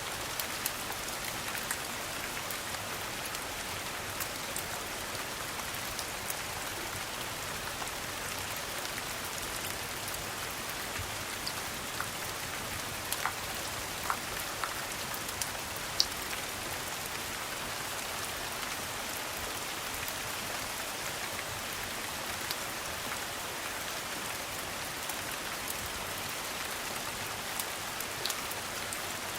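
Steady rain falling, an even hiss, with scattered sharp pops of a crackling wood fire, the loudest about two thirds of the way through.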